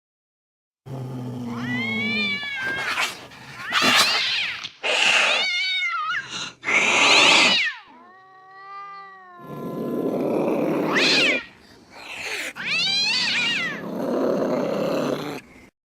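Angry cats yowling and hissing: a string of wavering yowls that rise and fall in pitch, mixed with harsh hisses, starting about a second in and cutting off just before the end.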